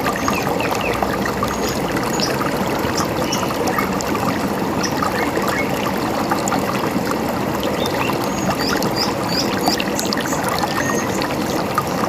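A river running steadily, with scattered short bird chirps over it and a brief run of chirps near the end.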